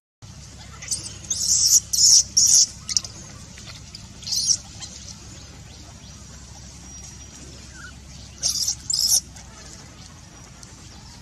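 Short, high-pitched squeaks from a baby macaque, in a quick cluster of four or five, then one more, then a pair near the end.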